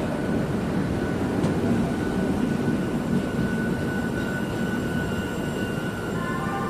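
Passenger train running: a steady low rumble with a thin, steady whine above it.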